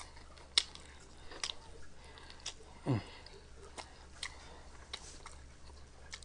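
A person chewing fried chicken close to the microphone: sharp wet mouth clicks and smacks every half second or so, the loudest less than a second in. About three seconds in there is a short falling vocal sound.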